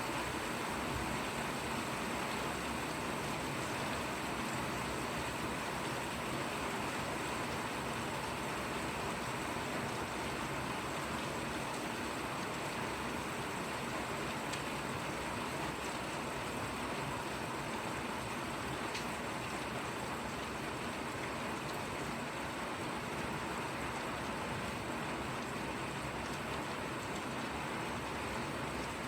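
Steady light rain falling, an even hiss that does not change.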